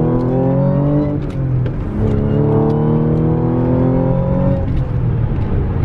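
2015 Audi S4's supercharged 3.0 V6, with a rear muffler delete, accelerating under light throttle. The engine pitch climbs, drops at an upshift about a second in, climbs again through the next gear, then eases off near the end.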